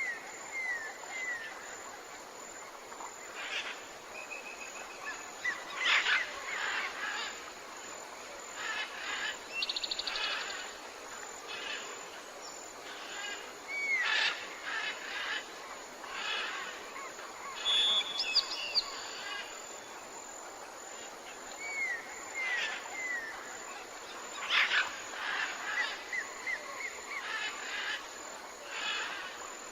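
Tropical forest birds calling over a soft steady hiss: sharp chirps every few seconds, groups of three or four quick falling whistles, and now and then a fast buzzy trill.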